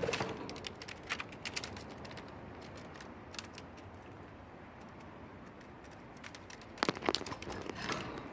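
Scattered small clicks and taps from budgies in their cage, irregular and bunched near the end, with no chirping.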